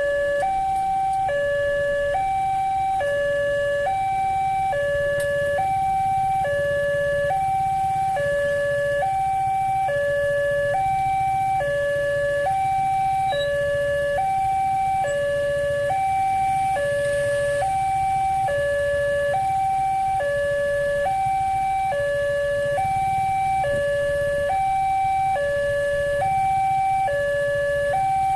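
Railway level crossing warning alarm sounding a steady two-tone hi-lo signal, switching between a low and a high tone about once a second, over a low rumble.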